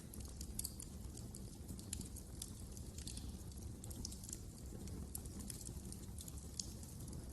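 Wood fire crackling in a fireplace: frequent small irregular pops and snaps over a low steady rumble of the flames.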